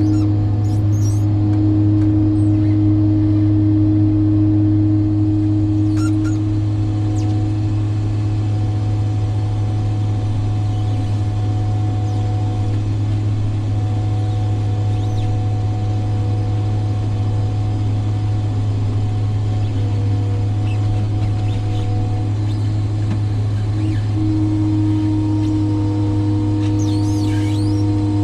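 Truck engine running steadily at idle: a deep, even drone that holds the same pitch throughout.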